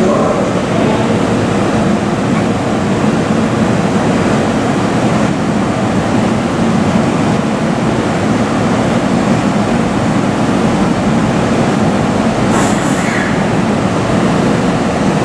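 Seibu 40000-series electric train standing at the platform with its doors open, its onboard equipment running with a steady hum. A brief hiss comes near the end.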